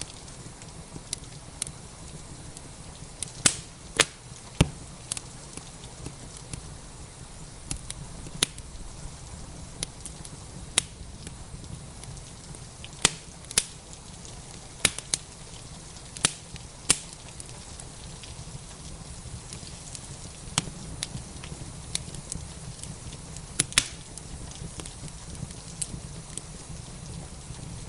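Wood fire crackling in a fireplace, with irregular sharp pops a second or several apart, over a steady hiss of rain.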